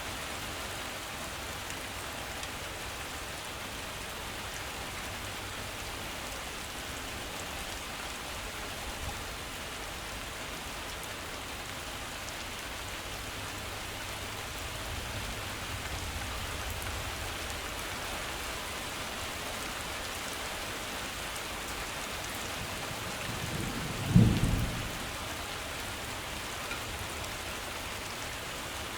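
Heavy rain falling steadily, an even hiss of drops on surfaces. A faint low rumble rises a little past the middle, and a sudden short low boom, much louder than the rain, comes near the end.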